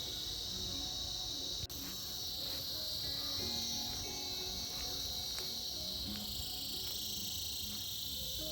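A chorus of cicadas making a steady high-pitched buzz, with a sudden brief dip in level just under two seconds in.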